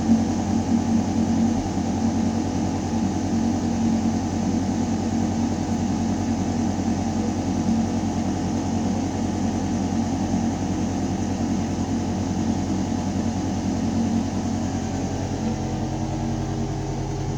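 Building ventilation system humming steadily: air moving through metal ductwork with a low mechanical drone and a few held tones. About fifteen seconds in, the low tones shift slightly.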